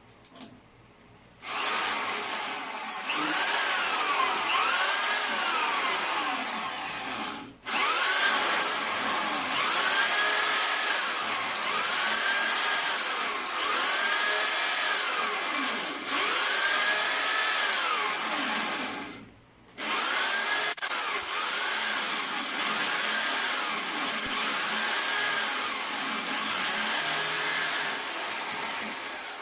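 Handheld power tool running in three long runs with two short stops, its pitch swelling and dipping about every second and a half to two seconds as it is worked.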